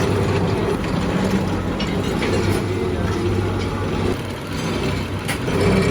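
A machine running steadily with a low hum, and a sharp click about five seconds in.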